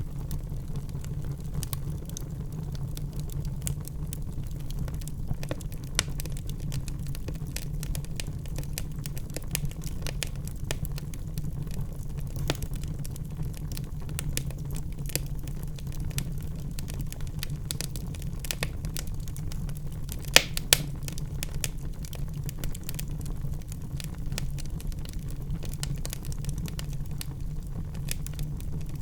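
Wood fire burning in a fireplace: a steady low roar of flames with frequent small crackles and pops, and two louder pops about two-thirds of the way through.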